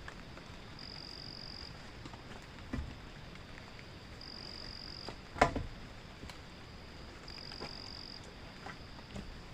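An insect in the forest gives a high, steady buzzing call just under a second long, repeated about every two and a half seconds, over a steady background hiss. Light scattered taps fall throughout, and a single sharp click about halfway through is the loudest sound.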